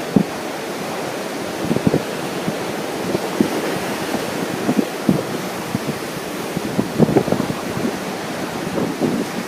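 Wind buffeting the microphone in irregular gusts over a steady wash of ocean surf.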